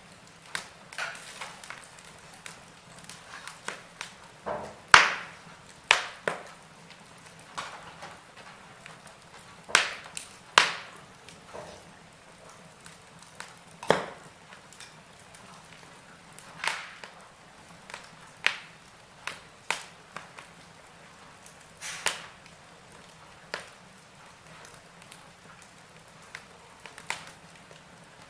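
Wood fire in a fireplace crackling: irregular sharp pops and snaps over a faint steady hiss, the loudest pop about five seconds in.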